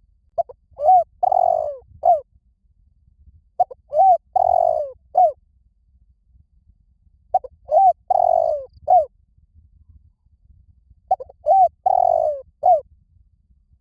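Spotted dove cooing: four identical phrases, each a few short notes, one longer drawn-out note and a short closing note, repeated about every four seconds. This is the kind of call used as a lure to draw wild spotted doves in.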